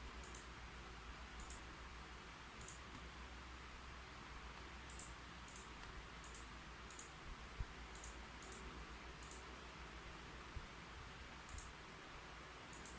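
Faint computer keyboard keystrokes: about a dozen single clicks spread irregularly, as in slow, unhurried typing, over a steady low hiss.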